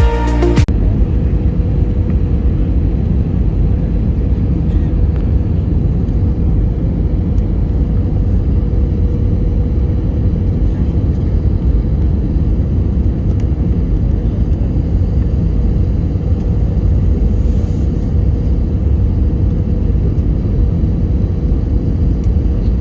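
Steady low rumble inside an Airbus A320's cabin, from the engines and airflow, with a faint steady hum on top. Background music cuts off about a second in.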